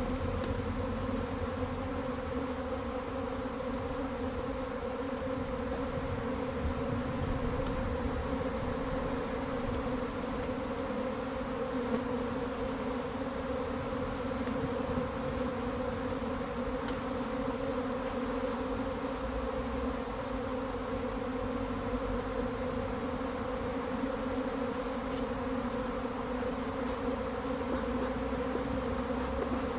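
Honeybees from a hive colony buzzing in a steady, even hum.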